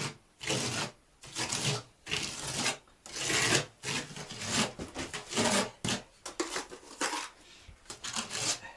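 Spatula scraping and spreading textured decorative plaster across the fireplace surround, in a series of short rasping strokes about one a second.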